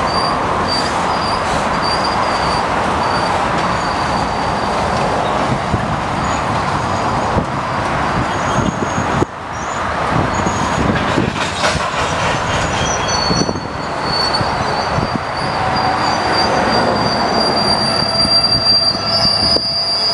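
Freight train's covered hopper cars rolling past, steel wheels rumbling and clicking on the rails. The wheel flanges squeal in thin, high, drawn-out tones that come and go, loudest near the end.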